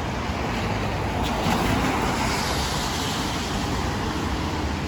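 Street traffic on wet pavement: a vehicle's tyres hiss past, swelling about a second and a half in and fading after a few seconds.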